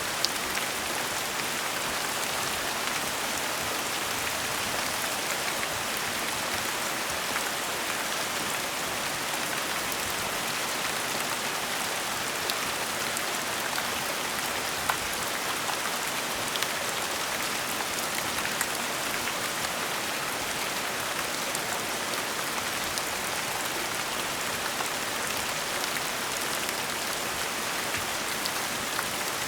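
Steady gentle rain falling, an even hiss with scattered individual drops ticking through it.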